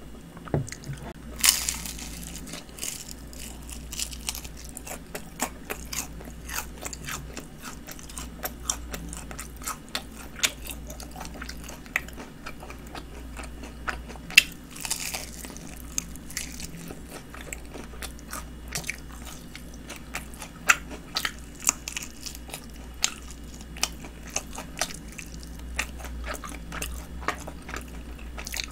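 Crunching bites and chewing of crispy honey-glazed fried chicken: irregular sharp crunches, the strongest about a second and a half in and just after the middle.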